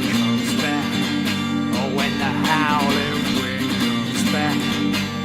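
Live acoustic song: steadily strummed acoustic guitar, with a wavering high melody line coming in twice over the chords.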